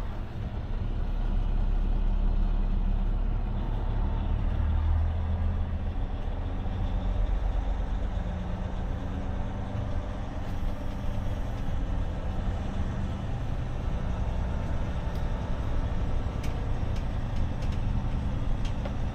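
Truck engine running at low speed, a steady low drone, a little louder about a second in.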